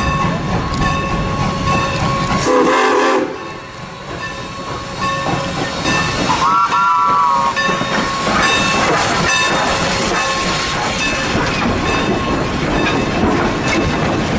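A train rolling along the rails, with a steady ringing squeal and repeated wheel clicks. It sounds two short whistle blasts, about two and a half and six and a half seconds in; the second rises in pitch as it starts.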